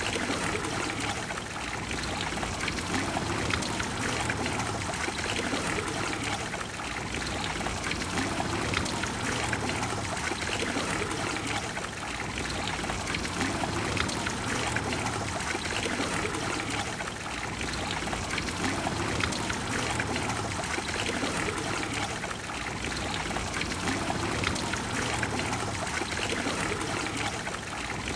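Water of the Trevi Fountain cascading and splashing into its basin in a steady rush.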